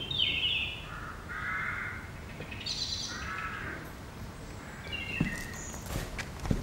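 Several harsh, cawing bird calls in quick succession, each at a different pitch, followed near the end by a few soft low thuds.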